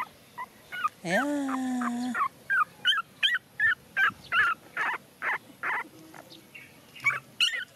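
Young puppies crying: a string of short, high whimpering cries, about three a second.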